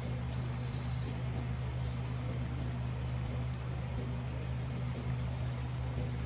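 A steady low hum with several even pitches, under high, bird-like chirps and a quick run of ticks in the first two seconds, and faint chirps again near the end.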